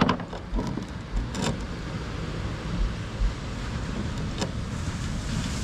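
Wind buffeting the microphone with a steady low rumble, and a few light clicks from fishing tackle handled while a rig is retied.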